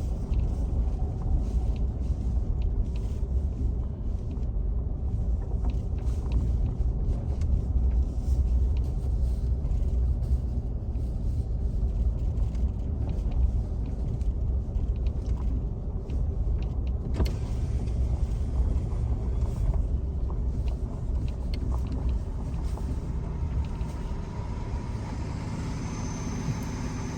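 Steady low rumble of a vehicle being driven, heard from inside it. Near the end the rumble eases and settles into an engine idling with a steady tone.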